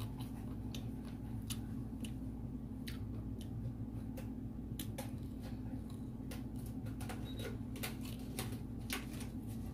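Someone eating chicken with rice and gravy: scattered small wet clicks and smacks of chewing, irregular and quick, over a steady low hum.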